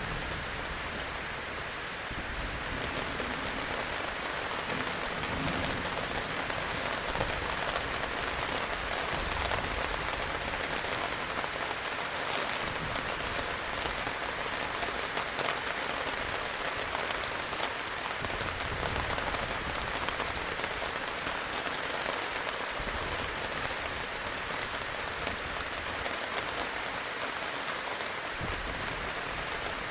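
Heavy rain falling steadily, a dense patter of individual drops.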